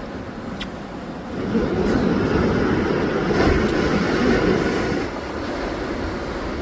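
Distant rocket launch rumble, a rough, crackling roar that swells about a second and a half in and eases back about five seconds in.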